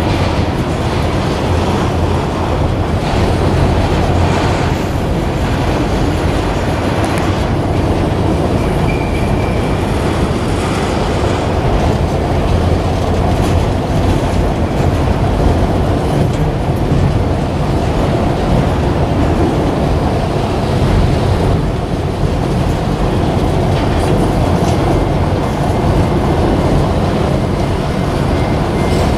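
Freight train of autorack cars rolling past: a steady, loud rumble of steel wheels on rail, with a brief thin wheel squeal about nine seconds in.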